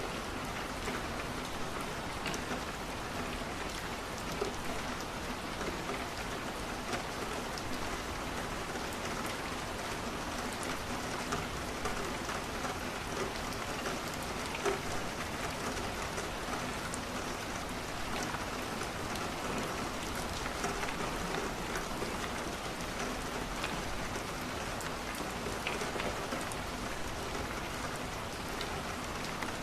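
Steady rain falling, mixed with scattered small pops and crackles of burning wood in a fireplace.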